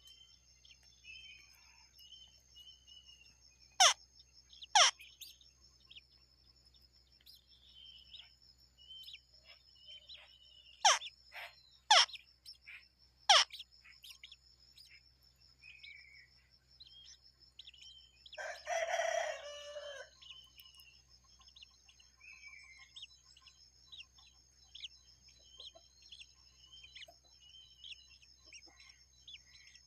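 Small birds chirping, with several loud, sharp downward-sweeping calls: two close together, then three more in quick succession. A rooster crows once about two-thirds of the way through, under a steady high-pitched buzz.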